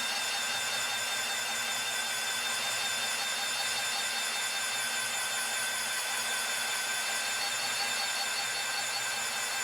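Hougen HMD-900 magnetic drill's motor running steadily while an annular cutter bores a hole through metal: a continuous whine with no break.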